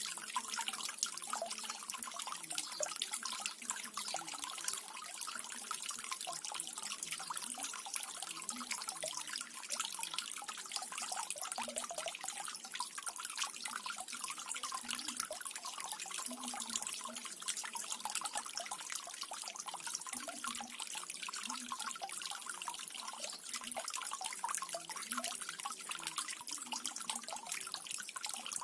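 Small garden waterfall: water falling and splashing steadily into a pool, with a continuous trickle and small low gurgles.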